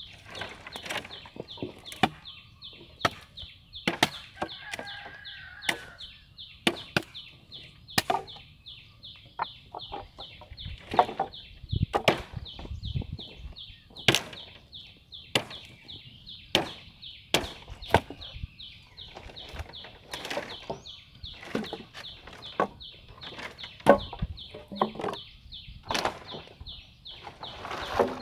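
Repeated chopping strokes of a hand tool cutting into brush and ground while land is cleared, landing irregularly about once every half second to second. A chicken clucks about four seconds in, over a steady high pulsing trill.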